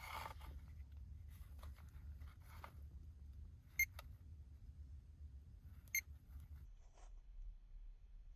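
Two short, sharp, ringing clicks about two seconds apart, like light metal-on-metal clinks, over a faint low hum with a few fainter ticks earlier on.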